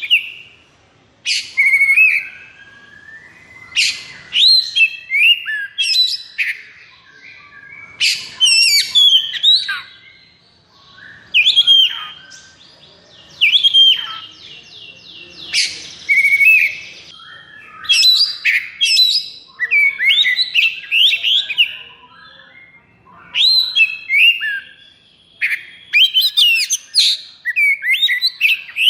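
Oriental magpie-robin (kacer) singing in loud, quick bursts of varied whistled and scratchy phrases, one every second or two, with a longer buzzy rattle near the middle.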